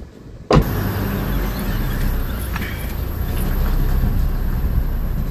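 A sudden loud thump about half a second in, then a car engine running steadily, heard from inside the cabin.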